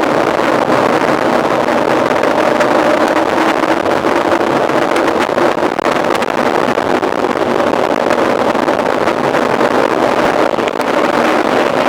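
Steady rushing wind noise on the microphone of a camera carried on a mountain bike at speed.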